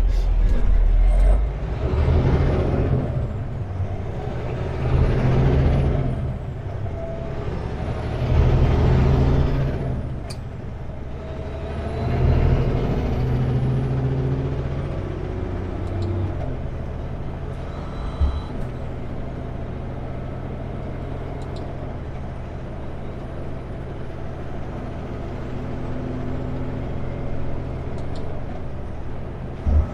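Kenworth W900L semi truck's diesel engine pulling away from a stop. It revs up and drops back four times, once every three to four seconds as it climbs through the gears, with a faint high whistle rising and falling on each rev. After about sixteen seconds it settles to a steadier cruise.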